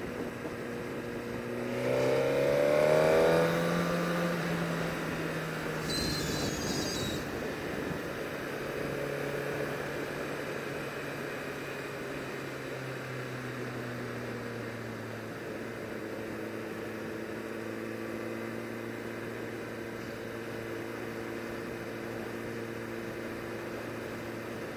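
Sport bike engine revving up as it accelerates about two seconds in, then running steadily at a cruising speed.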